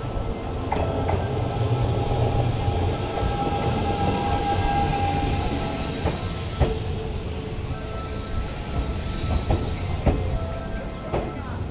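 Hanshin 5500-series electric commuter train approaching and running past close by: a low rumble of wheels on rail, with a few sharp clicks as the wheels cross rail joints and a steady high whine over it.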